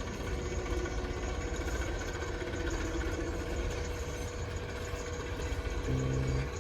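Heavy diesel engine of earthmoving machinery running steadily with a low rumble. A short, steady tone lasting about half a second sounds near the end.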